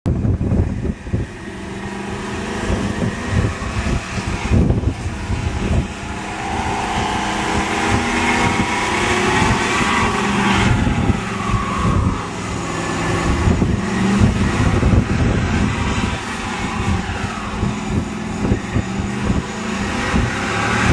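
Chevrolet pickup truck's engine revving hard during a burnout, its pitch climbing and falling, with the spinning tyres adding a higher whine from about six to twelve seconds in.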